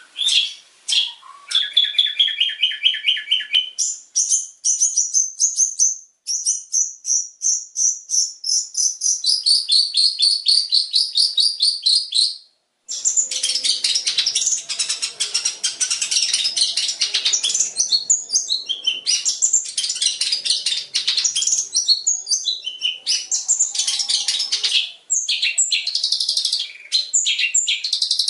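Long-tailed shrike (cendet) singing a fast, varied song: a short lower trill, then a long run of quick repeated high notes, a brief break just after halfway, and then dense, rapid chattering.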